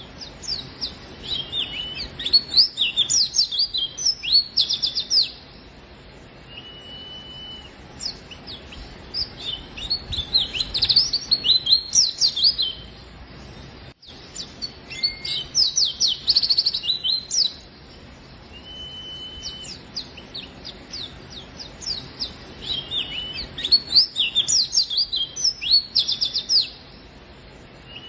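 White-eye (pleci) singing: four long bursts of rapid, high twittering chirps, with a short single whistled note in the pauses between them.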